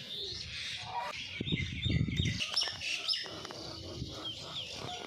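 Small birds chirping: many short, high calls overlapping. A brief low rumble comes about one and a half seconds in.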